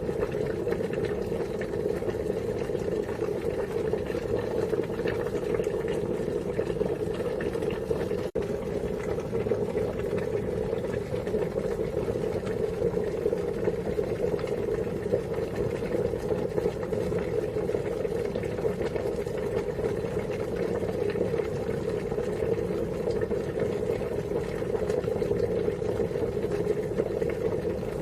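Water boiling steadily: a continuous, dense bubbling with one momentary break about eight seconds in.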